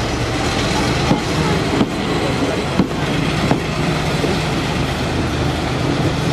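Coaches of a passing Taiwan Railway passenger train rolling by close at steady speed: a continuous rumble of steel wheels on rail, with sharp clacks coming in pairs as the wheel sets cross rail joints.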